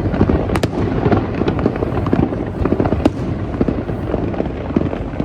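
Fireworks going off in quick succession: a dense rumble of bursts with sharp cracks, among them a double crack about half a second in and another near three seconds.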